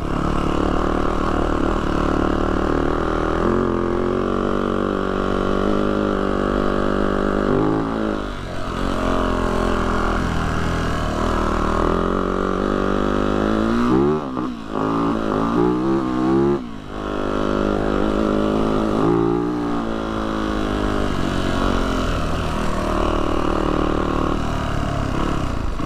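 Yamaha YZ450F dirt bike's four-stroke single-cylinder engine running on the trail, its revs rising and falling with the throttle. About halfway through it drops off twice in quick succession, with sweeping rises and falls in pitch.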